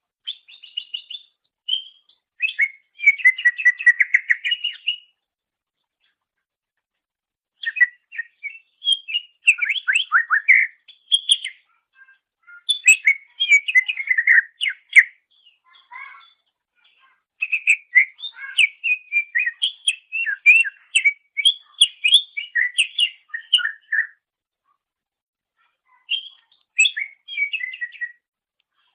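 Green leafbird (cucak ijo) singing: about five phrases of fast, varied short notes, each a few seconds long, separated by brief pauses.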